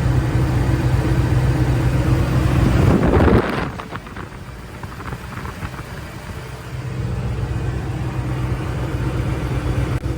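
Car engine idling steadily, being listened to for lifter noise. About three seconds in there is a louder noisy surge, then the engine sound drops for a few seconds before the steady idle is heard again.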